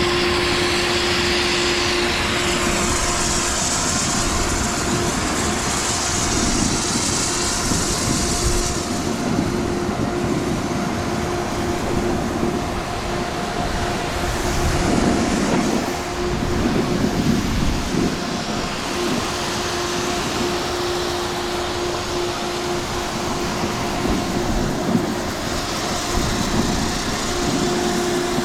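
Snowboards sliding and scraping over icy snow with a steady rushing hiss, and a faint steady hum underneath that comes and goes.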